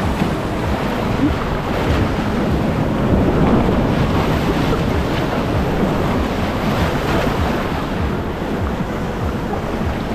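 Rushing river water churning through rapids, a loud steady wash, with wind buffeting the microphone.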